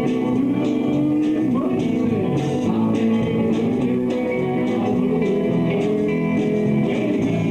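Live rock band playing an instrumental passage: electric guitars over bass and drums, with a steady beat of cymbal hits.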